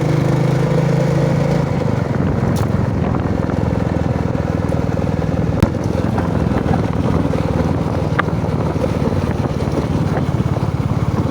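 Royal Enfield Bullet's single-cylinder engine running steadily under way, with wind on the microphone. A sharp click about halfway through.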